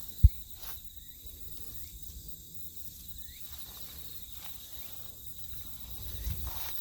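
Steady high-pitched chorus of insects chirping, with one sharp low thump about a quarter second in and a few faint chirps.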